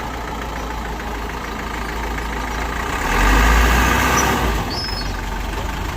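Heavy diesel engine of earthmoving machinery running steadily, then swelling louder under load for about a second and a half past the middle before settling back.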